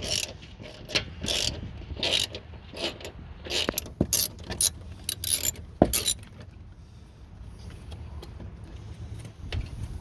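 Hand ratchet wrench clicking in short runs as small cover bolts are undone, with knocks and clinks of tools and metal parts; one sharp knock near six seconds in, then it goes quieter.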